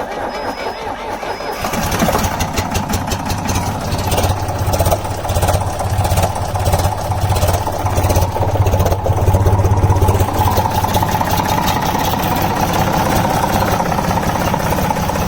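Air-cooled three-cylinder Deutz diesel of a Waldon 5000 loader firing on a cold start about a second and a half in, after a brief crank on a jumper box. It runs unevenly at first, then steadies into an even idle from about ten seconds in.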